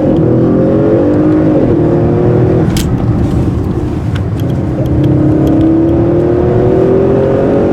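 Audi RS6's twin-turbo V8 under hard acceleration, heard from inside the cabin: the engine note climbs steadily through a gear, drops at an upshift about two and a half seconds in, then climbs again through the next gear.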